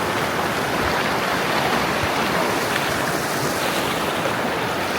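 River water rushing steadily over rocks, a continuous even roar.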